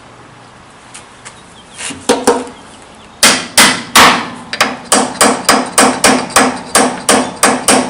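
Hammer striking metal in the machine shop: two light taps about two seconds in, then a steady run of about fifteen sharp blows, roughly three a second, each with a short ring, the first few the loudest.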